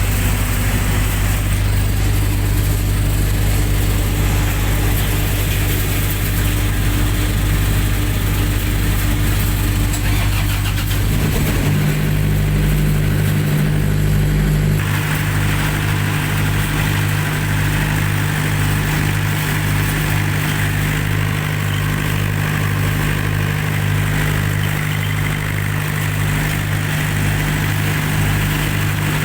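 Generator set's engine running steadily. About 11 seconds in its note changes, settling into a higher steady hum with an even pulsing underneath.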